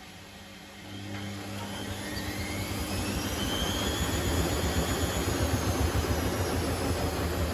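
Privileg Sensation 952 S top-loading washing machine starting a spin: the drum motor spins up about a second in, growing louder over a few seconds with a whine that rises in pitch, then runs on at speed.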